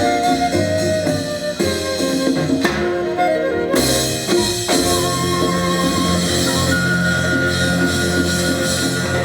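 Latin jazz ensemble playing live, a drum kit under the melody, with long held notes from about halfway through.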